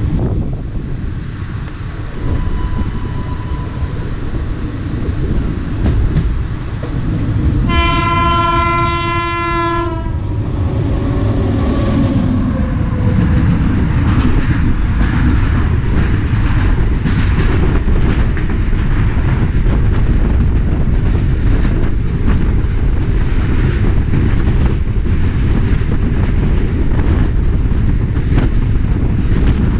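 A train running on the rails with a steady low rumble, and a locomotive horn sounding one blast of about two seconds around eight seconds in. From about twelve seconds on comes a fast, continuous clatter of wheels on rail joints as freight wagons pass close by.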